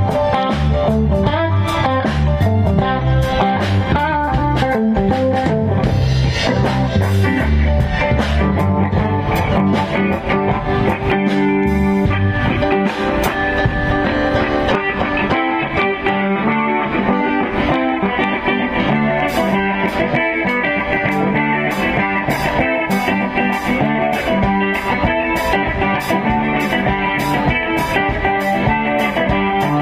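Band music led by guitar, in a blues-rock style. The low bass notes drop away about midway, and in the second half a sharp percussion tick keeps time about twice a second.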